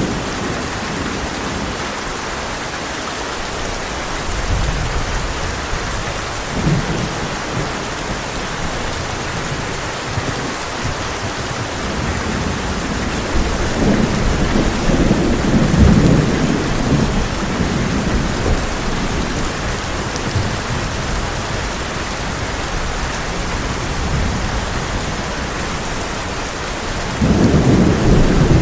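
Heavy rain falling steadily on a tin roof, with thunder rumbling through it: a low rumble a few seconds in, a longer, louder roll in the middle, and a sharp louder clap near the end.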